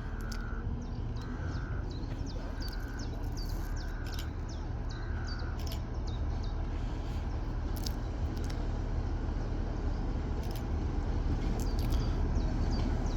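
Low, steady diesel rumble of a Class 43 HST power car, growing gradually louder, with small birds chirping and a crow cawing six times in quick succession during the first half.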